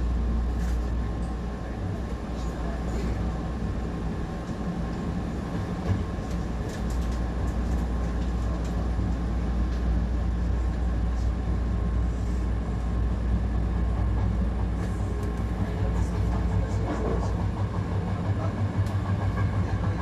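Hankyu 1000 series electric commuter train running, heard from just behind the driver's cab: a steady rumble of wheels on rail with a faint steady whine and scattered short clicks. The sound grows somewhat louder in the last few seconds.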